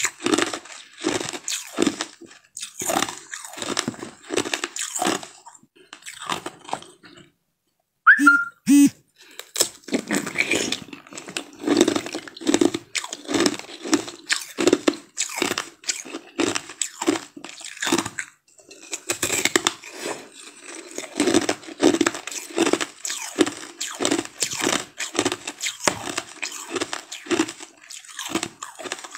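Close-up mouth sounds of biting and chewing a frozen ice treat: quick, crisp crunches, a few a second. The crunching stops briefly, then resumes after a single loud, sharp clack about eight seconds in.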